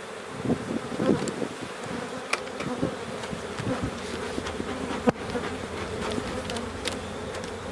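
Honey bees buzzing in a steady hum around an open hive, with a few sharp clicks, the loudest about five seconds in.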